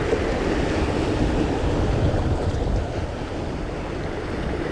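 Wind buffeting the microphone with sea waves washing in, a steady rumbling noise.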